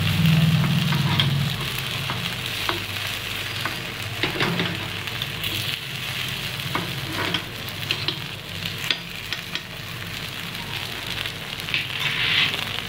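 Carrot paniyaram batter balls sizzling and crackling in oil in a cast-iron kuzhi paniyaram pan, with sharp clicks of a metal spoon against the pan as the balls are turned. A low hum fades out in the first second or two.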